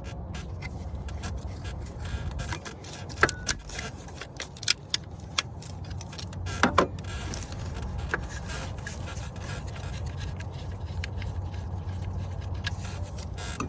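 Metallic clinks and scrapes, like hand tools on car parts, over a steady low hum; the loudest clinks come around the third to seventh seconds.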